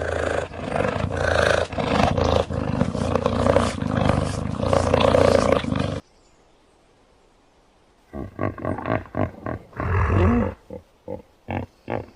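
A large wild animal roaring and growling in a loud continuous stretch that cuts off after about six seconds. About two seconds later comes a series of shorter, separate roaring grunts.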